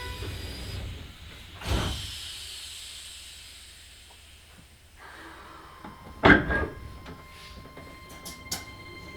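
Sliding doors of a Keisei 3000 series commuter train closing at a station, heard from inside the car. There is a thump about two seconds in and a louder thump about six seconds in, then a few light clicks and a faint steady whine.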